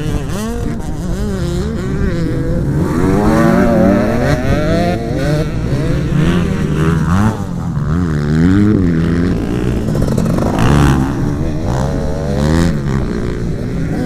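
Several motocross bikes' engines revving up and down, their pitch rising and falling over one another throughout.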